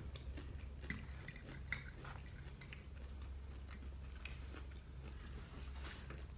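Quiet chewing of food with a few small, scattered clicks of chopsticks and a fork against plates, over a low steady hum.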